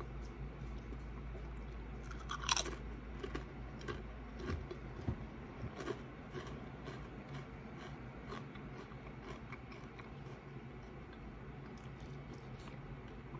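A crisp tortilla chip is bitten and chewed close to the mic, with one loud crunch about two and a half seconds in. Crackling chewing follows for a few seconds, then settles into softer, sparser chewing.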